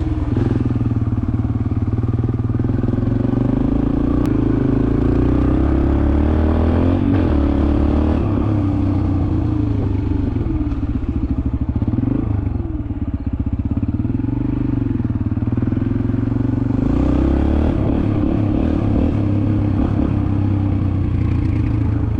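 Yamaha TT-R125's single-cylinder four-stroke engine running as the dirt bike is ridden, its pitch rising and falling with the throttle. It eases off briefly about twelve seconds in, then picks up again.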